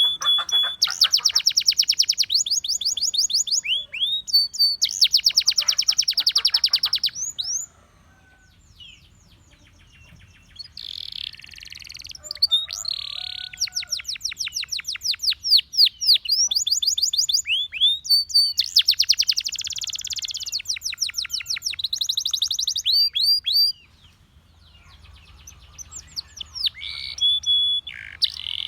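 Domestic canary singing long rolling trills of rapidly repeated, quick-sweeping high notes, with two short quieter breaks between phrases.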